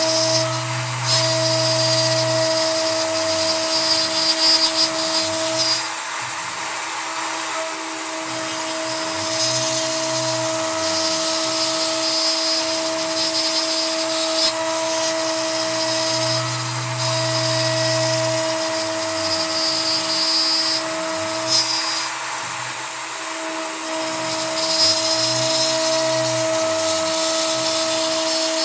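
CNC router's Kress spindle running at a steady high whine while a 3 mm end mill cuts pine, with the cutting noise swelling and easing as the tool moves through the wood. A lower hum comes and goes every several seconds as the machine moves.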